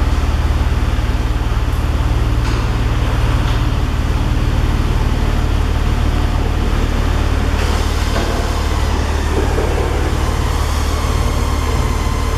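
Porsche 911 Carrera flat-six running steadily through a Tubi aftermarket exhaust, a low, even rumble with no revving.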